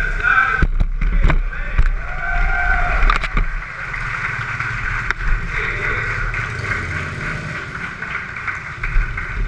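Several motorcycle engines running at low speed, with a few sharp knocks in the first few seconds.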